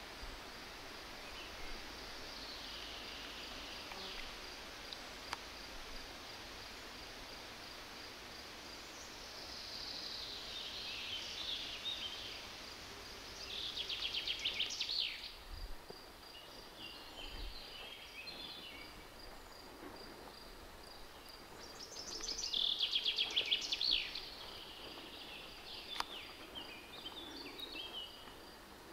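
Songbirds singing in woodland: three loud, rapid trilled phrases, the strongest about halfway through and again near the end, with quieter chirps between them. A faint, steady, high pulsing tone runs underneath.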